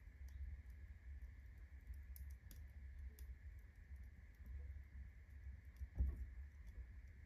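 Firewood burning in a fireplace during the kindling phase, crackling faintly with scattered small pops over a low steady rumble. A single soft thump about six seconds in.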